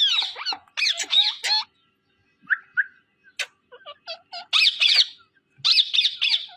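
Green parrot squawking and chattering in short, high bursts, with a softer run of chirps and clicks in the middle.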